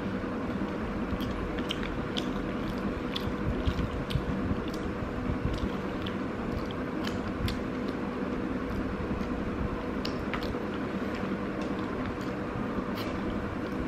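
Close-up chewing and crunching of nasi ambang eaten by hand, with many small irregular clicks and crackles from mouth and fingers. A steady low hum and rumble runs underneath.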